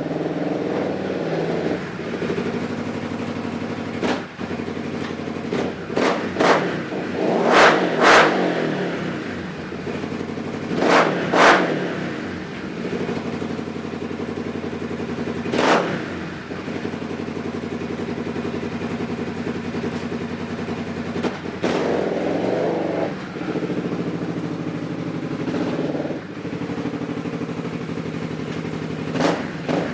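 Polaris RZR XP 900's twin-cylinder engine idling through a dual aftermarket Looney Tuned exhaust, blipped with quick throttle revs. There are pairs of blips around six, eight and eleven seconds in, the pair at eight the loudest, and single ones near sixteen seconds and near the end.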